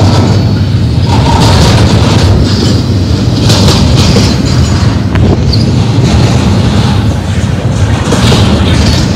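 Double-stack intermodal train's well cars rolling past close by: a steady, loud rumble of steel wheels on rail, with occasional clanks as the wheel trucks go by.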